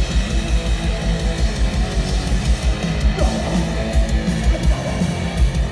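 Live hardcore punk band playing loud and fast: distorted electric guitars strummed over a rapid, pounding drum beat.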